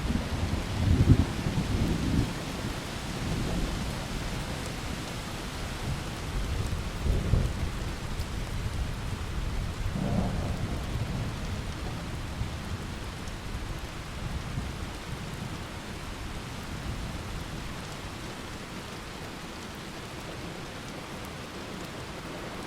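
Steady rain with rolling thunder: low rumbles swell about a second in and again around seven and ten seconds, then fade, leaving the rain hissing on its own.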